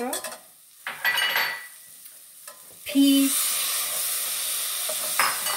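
Metal spatula scraping and stirring through frying onion and spices in a stainless steel pan. About three seconds in, green peas go into the hot pan and set off a loud, steady sizzle.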